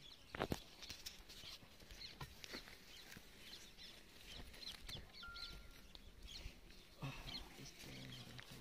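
Faint, scattered chirps of small birds, with a sharp knock about half a second in.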